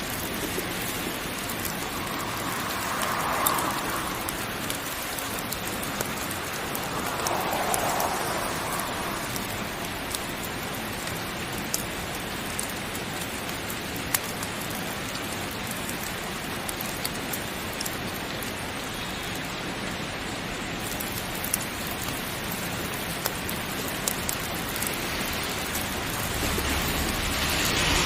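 Heavy rain falling steadily, with scattered sharp drop ticks, a couple of brief swells, and a louder swell near the end.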